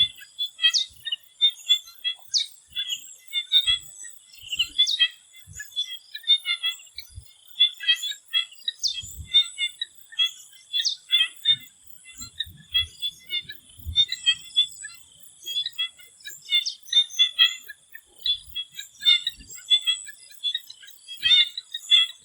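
Swamp frogs calling in a chorus: dense, irregular short chirping calls overlapping one another, over a steady high-pitched thin tone.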